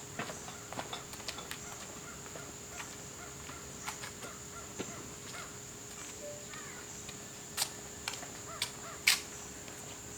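Scattered light clicks and knocks, the loudest a sharp knock about nine seconds in, with a brief bird call in the background about midway.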